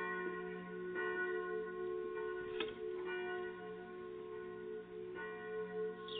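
Church bells ringing, a ringing chord of steady tones renewed by strokes about a second apart, with a short bird chirp about two and a half seconds in.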